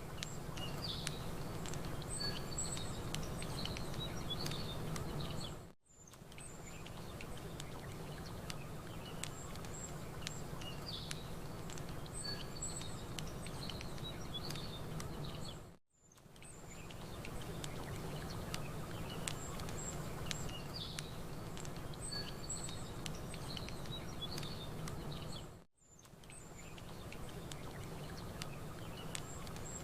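Campfire crackling under a steady low rumble, with small birds chirping. The recording is a short loop that repeats about every ten seconds and dips to silence for a moment three times.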